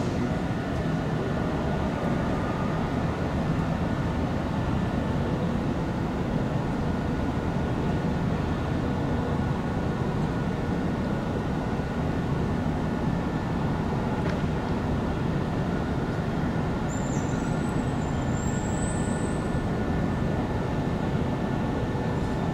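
Steady rumble of electric trains running on the line, with a brief high-pitched squeal about three-quarters of the way through.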